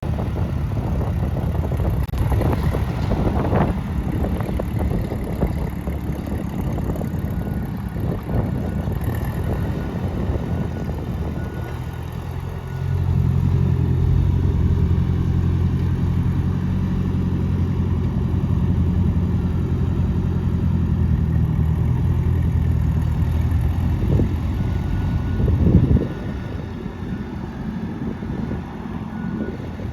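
Ford 8N tractor's four-cylinder flathead engine running. About twelve seconds in it is throttled up to a louder, steady speed, and it drops back to a lower speed a little before the end.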